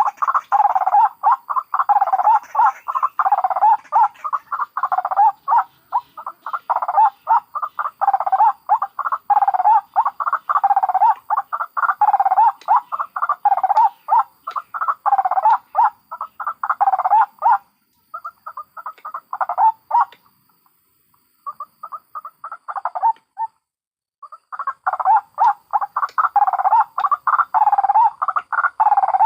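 White-breasted waterhens giving their rapid, repeated cackling calls in dense overlapping series, played as a bird-trapping lure. The calling thins to shorter bouts with two brief pauses past the middle, then resumes at full strength.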